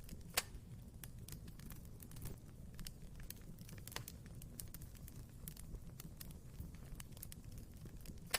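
Wood fire burning in a fireplace: a low steady rumble with irregular crackles and sharp pops, the loudest pop about half a second in.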